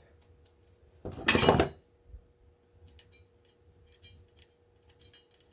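Pieces of copper scrap clattering as they are dropped onto a pile about a second in, followed by light metallic clinks and ticks as small metal pieces are handled.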